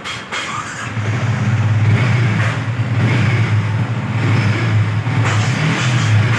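Yamaha R15's 155 cc single-cylinder engine running, its steady low note growing louder about a second in and then holding.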